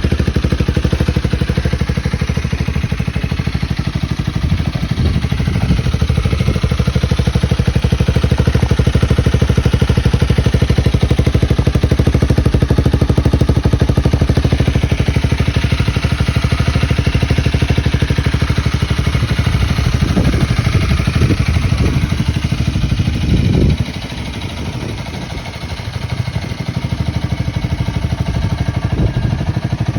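Honda Rebel 250 S Edition's single-cylinder engine idling steadily through an aftermarket muffler. It drops quieter for a couple of seconds about three-quarters of the way through, then picks up again.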